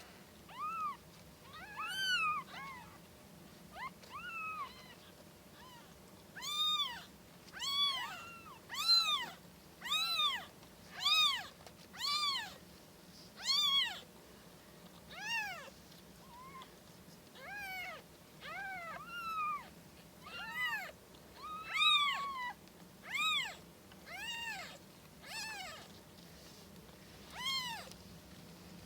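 Kittens mewing over and over, about once a second: short, high, arched cries, the loudest in the middle of the stretch.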